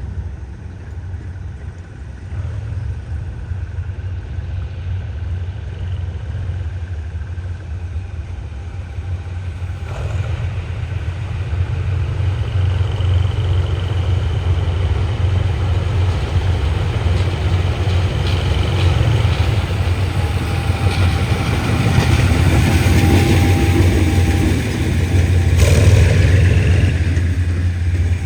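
Diesel train running with a deep, steady engine rumble, growing louder from about halfway through as it comes closer.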